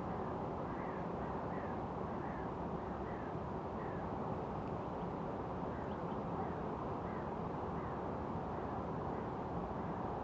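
A bird calling over and over, short falling chirps about every half second, over a steady low outdoor background noise.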